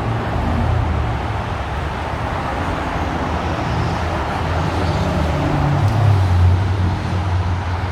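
Steady low rumble of motor-vehicle and road noise, with the engine's low drone shifting in pitch now and then.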